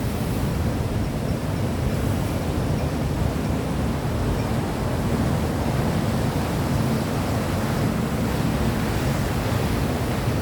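Steady, even rushing noise, strongest in the low end, with no distinct events.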